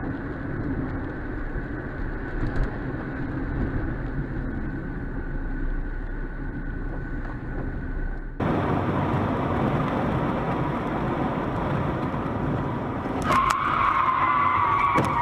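Car engine and road noise running steadily while driving, changing abruptly in character about eight seconds in. Near the end a few sharp clicks come, then a steady high tone.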